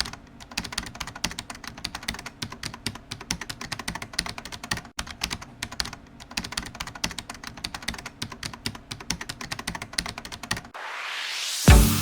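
Rapid, dense clicking of small hard objects. Near the end it gives way to a rising electronic whoosh that leads into music with a beat.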